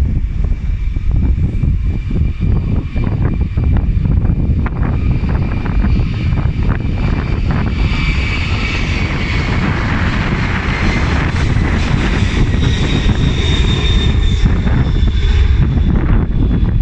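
Airliner engines passing with a steady high whine, the engine noise swelling about halfway through and easing off near the end, over wind rumbling on the microphone.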